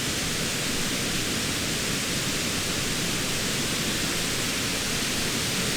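Steady, loud rush of flowing water from a river or waterfall: an even hiss with a low rumble beneath it that does not change.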